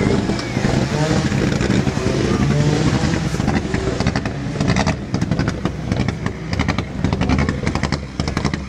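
Rally car engine running at idle with an uneven exhaust note, with rapid sharp crackling pops from the tailpipe from about halfway through. Voices of people nearby are heard over it in the first half.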